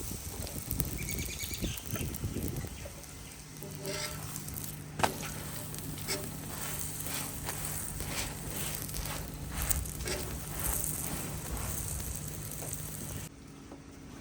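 Food sizzling in hot oil, a steady frying hiss with scattered sharp clicks and knocks, which stops abruptly near the end.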